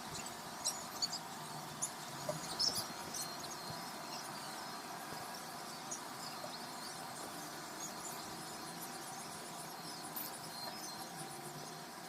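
Outdoor evening ambience: a steady background hiss with many short, scattered high-pitched chirps, a few of them louder in the first few seconds.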